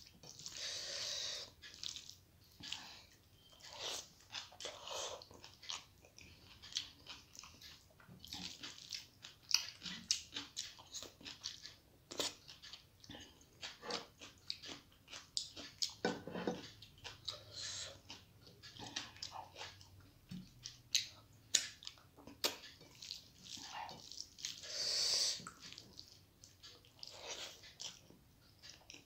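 Close-miked eating sounds: a person chewing and smacking mouthfuls of rice and curry eaten by hand, with many sharp clicks and short wet bursts as fingers work the food and mouthfuls are taken.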